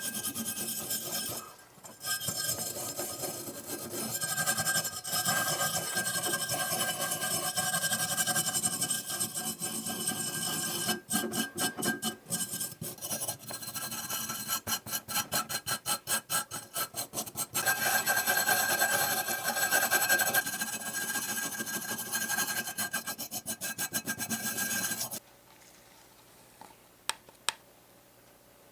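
Rasping, rubbing abrasive work on a part of a model truck, with a stretch of quick, regular back-and-forth strokes in the middle. It stops abruptly near the end, leaving a couple of light ticks.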